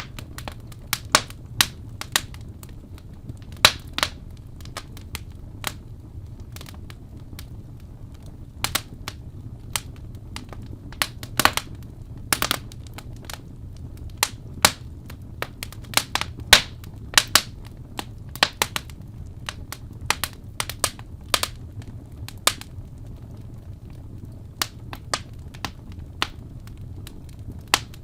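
Wood fire in a fireplace crackling, with sharp irregular pops a few times a second over a steady low hum.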